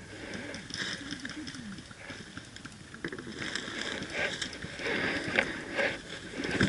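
Footsteps and rustling through brush and dry leaves, irregular crunching that grows busier and louder about halfway through.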